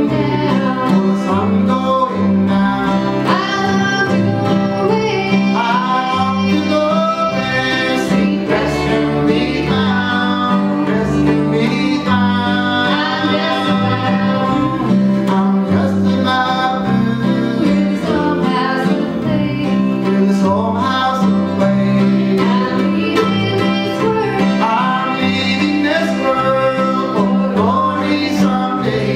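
Old-time string band playing live: fiddle, mandolin and guitar over an upright bass keeping a steady beat.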